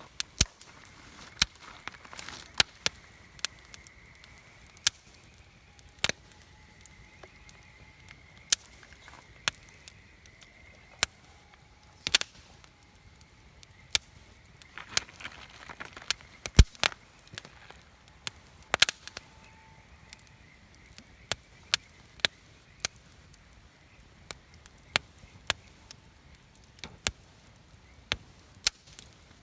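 Wood campfire crackling, with sharp pops at irregular intervals, about one or two a second, over a low hiss.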